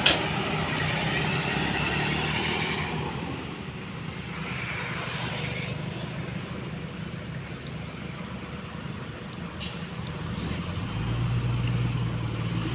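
Excavator's diesel engine running steadily, getting louder near the end as it takes on more load. There is a sharp knock right at the start.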